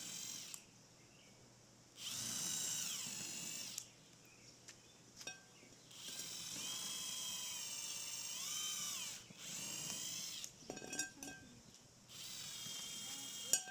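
Power drill running in short bursts of about one to three seconds, five times, its motor whine bending up as it spins up and down as it stops. A few sharp clicks fall between the later bursts.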